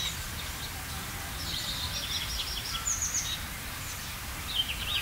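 Small birds chirping: short high calls at the start, a quick run of chirps in the middle and a few more near the end, over a steady low rumble of outdoor background noise.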